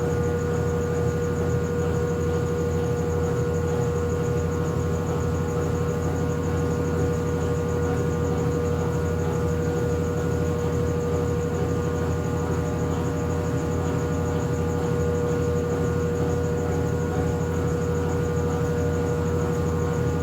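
Consul Facilite 8 kg top-loading washing machine running with a steady, unbroken hum and a constant high-pitched tone over it, with no back-and-forth agitation rhythm.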